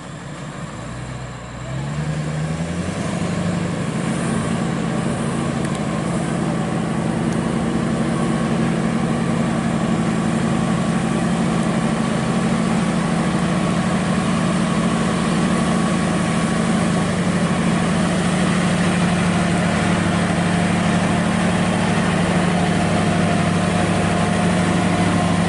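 Heavy diesel truck engine revving up about a second and a half in, then running steadily under load and slowly getting louder.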